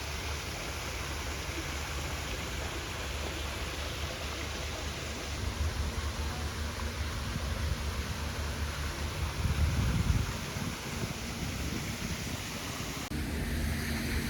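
Steady outdoor hiss with wind rumbling on the microphone, the rumble swelling briefly about ten seconds in.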